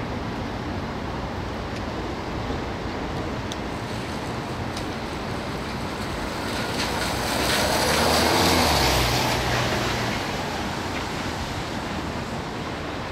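Boeing 787-9 airliner with GEnx jet engines passing close on its landing approach: the jet noise swells to a peak about eight seconds in, with a high engine whine over a deep rumble, then fades. Steady wind rush on the microphone underneath.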